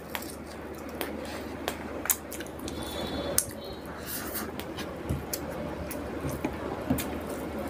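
Eating rice and fish curry by hand: wet squishing of food being mixed and gathered on a plate, with scattered light clicks and taps against the plate and chewing.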